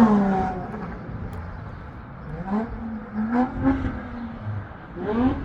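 Car engines accelerating and going by: a pitch that falls near the start as one passes, then rising pitches as others speed up, one more sharply just before the end.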